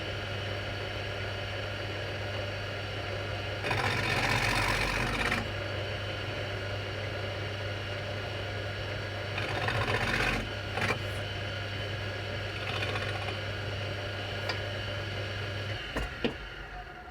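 Drill press running steadily while a cutter in its chuck planes the wooden mandolin headstock down to thickness; the cutting gets louder and rougher twice as the wood is pushed through, about 4 and 10 seconds in. The motor is switched off near the end and winds down.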